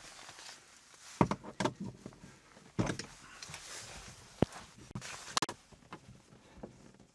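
Scattered sharp clicks and knocks of hand work on battery cable connections, about half a dozen separate taps and clacks of metal and plastic hardware.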